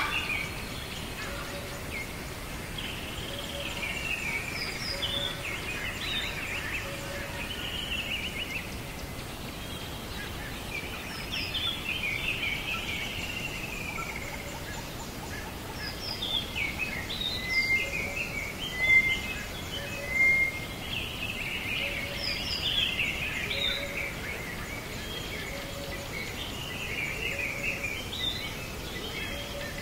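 Birdsong over a steady hiss: many short chirps and warbling phrases from several birds, with a soft low note repeating about every second and a half.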